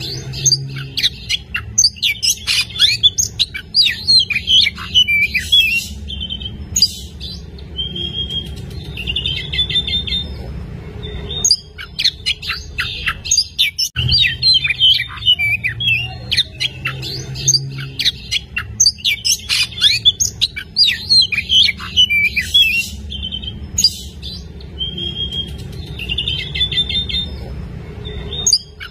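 Oriental magpie-robin (kacer) singing hard: a fast, varied stream of chirps, whistles and trills with short breaks, over a steady low hum.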